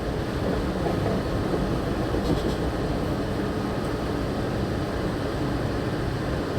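Steady rumble and hum inside a Walt Disney World monorail car.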